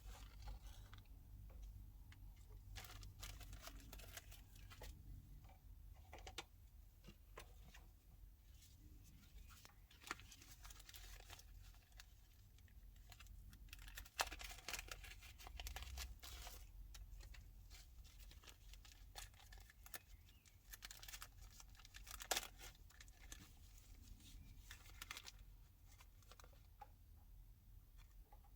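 Faint rustling and scattered light clicks and taps from handling craft supplies, with two sharper ticks, about 14 and 22 seconds in.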